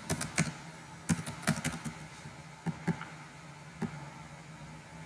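Irregular sharp clicks and taps of a computer keyboard and mouse, about ten in clusters, over a steady low hum.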